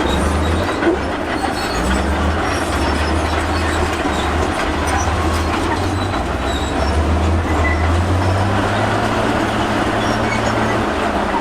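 Crawler bulldozer at work: its diesel engine running under load with its note shifting up and down, and the steel tracks clanking and squealing.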